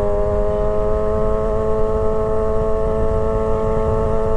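2008 Yamaha YZF-R6 inline-four sportbike engine running at a steady cruise, holding an even note, with wind rumble on the helmet microphone.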